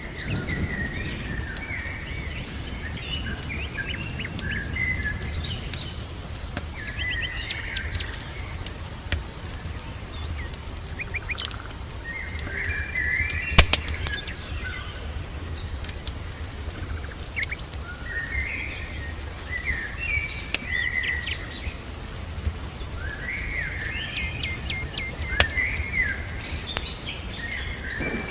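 A songbird singing short, quick phrases every few seconds, over a steady low rumble with scattered sharp cracks; the loudest crack comes about halfway through.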